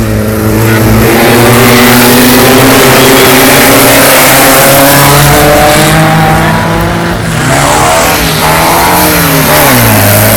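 Volkswagen race car engines running loud at high revs, their pitch rising and falling through gear changes. Near the end an engine's pitch drops sharply as it comes off the throttle.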